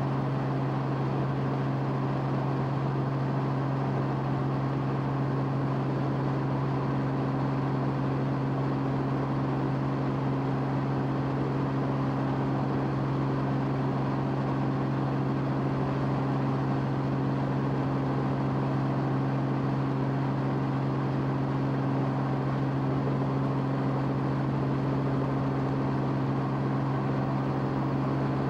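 Steady low engine drone of an aircraft heard from on board, one constant hum with no change in pitch or level.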